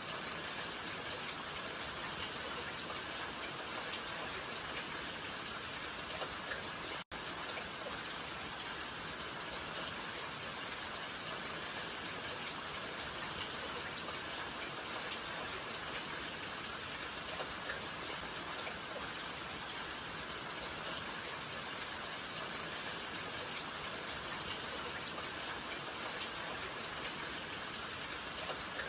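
Steady rain falling: an even hiss dotted with the ticks of individual drops. The sound cuts out for a split second about seven seconds in.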